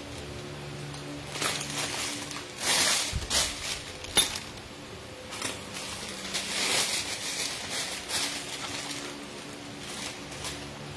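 Kitchen utensils and containers being handled: scattered rustles and clinks, with one sharp click about four seconds in, over a faint steady hum.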